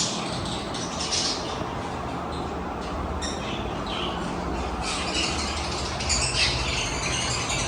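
Lovebirds calling in an aviary: many short, high-pitched chirps and squawks in overlapping bursts, busier in the second half, over a steady low hum.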